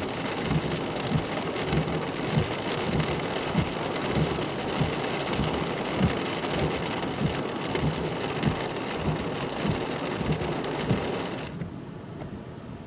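Heavy rain pelting a vehicle, a dense patter of drops over a run of regular low thumps. About a second before the end it drops off abruptly to a quieter, duller hum.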